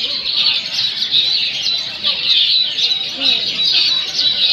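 Many long-tailed shrikes (cendet) singing at once in a songbird contest: a dense, continuous high chatter of quick overlapping calls.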